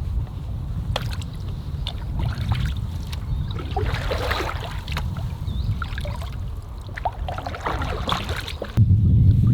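Canoe paddling: the paddle splashes and drips in the water twice, with scattered light knocks on the hull. A low rumble on the microphone runs underneath and jumps louder near the end.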